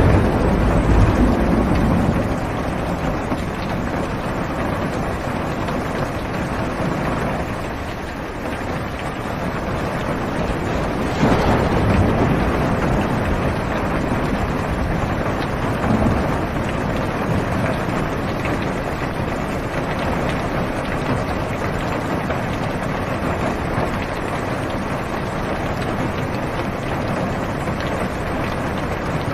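Heavy rain drumming steadily on a car's roof and windows, heard from inside the cabin, with louder low swells in the first couple of seconds and again about 11 seconds in.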